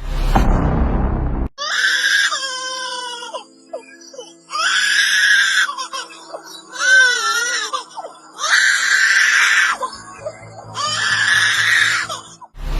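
A bird's loud screaming calls, five in a row, each a second or so long, the middle one wavering in pitch. It starts with a short noisy burst.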